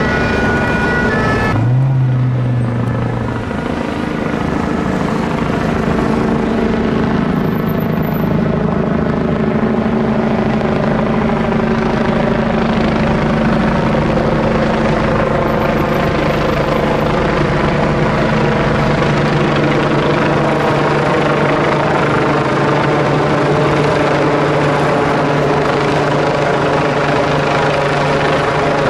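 A two-tone emergency siren sounds briefly and cuts off abruptly about a second and a half in. A rescue helicopter hovering overhead then dominates, its rotor and engine running steadily and loudly.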